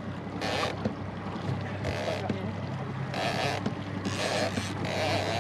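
Small outboard motor idling with a steady low hum as a jon boat runs slowly. Water slaps and splashes against the hull in several short hissing bursts.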